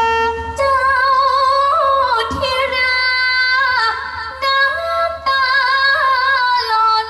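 A woman singing long, held notes with a wide vibrato, in phrases that break and resume, in the style of a Thai folk stage drama.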